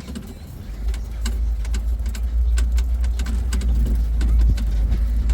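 Open-air safari vehicle driving along, a steady low engine and road rumble that grows louder about a second in, with scattered sharp clicks and rattles.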